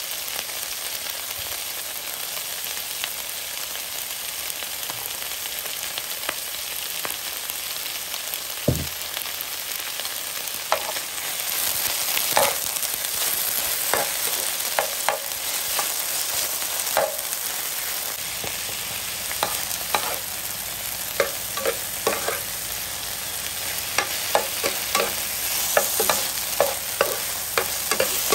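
Chinese kale sizzling in hot oil in a pan, steady throughout, while a metal spoon stirs it, clicking and scraping against the pan. The clicks are sparse at first and come thick and fast in the second half, with one low thud about nine seconds in.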